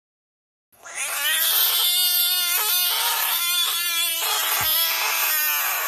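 A person screaming one long, loud 'aaaah', held on a nearly steady pitch for about five seconds, harsh and distorted from overloading the microphone; it starts about a second in and cuts off abruptly at the end.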